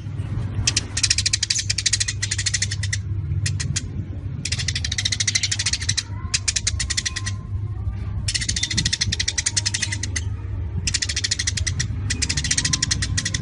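A songbird giving rapid, high-pitched rattling trills in repeated bouts of one to two seconds with short pauses between, over a steady low hum.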